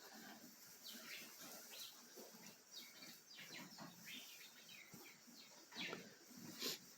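Faint, irregular crunching and rustling of Holstein cows eating feed in their stalls, with two louder rustles near the end.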